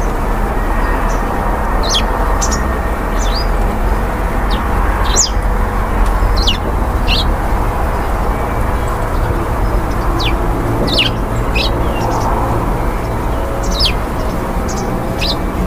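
Small birds chirping: short, sharp, falling chirps about once a second, heard over a steady, louder background rumble and hiss.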